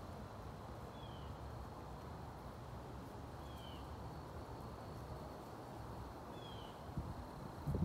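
A bird calling three times, each a short falling note about two and a half seconds apart, over a steady low outdoor rumble. A few low knocks come in near the end.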